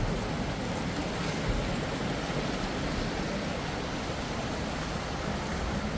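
A steady rushing noise, with a soft thump about one and a half seconds in.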